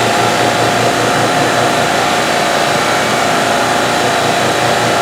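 Hobby CNC milling machine running steadily, its spindle driving a quarter-inch ball-nose end mill on a deburring and chamfering pass. The noise is even, with a low pulse repeating several times a second.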